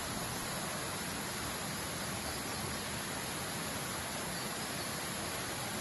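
Steady rush of a waterfall: an even, unchanging noise of falling water.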